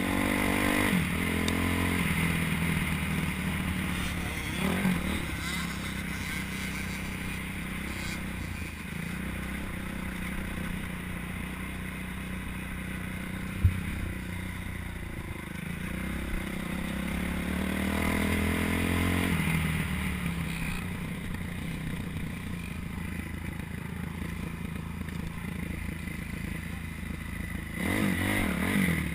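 Motocross dirt bike engine rising and falling in pitch as the throttle is opened and closed on the track, with a few strong revs and steadier running between them. A single sharp knock about fourteen seconds in.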